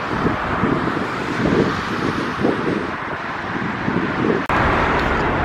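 Wind buffeting the microphone in irregular low gusts over a steady outdoor rushing noise, with a sharp click about four and a half seconds in.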